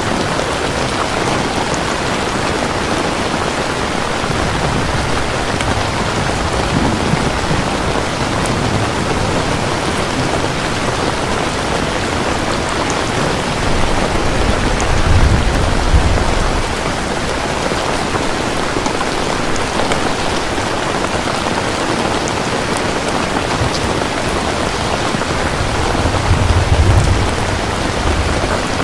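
Steady heavy rainfall, with two low rolls of thunder, one about halfway through and one near the end.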